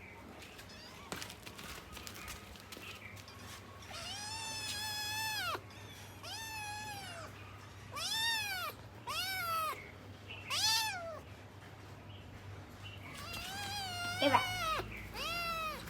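A cat meowing over and over: about seven drawn-out meows, each rising and falling in pitch, coming in a string from about four seconds in. A brief sharp click sounds during one of the later meows.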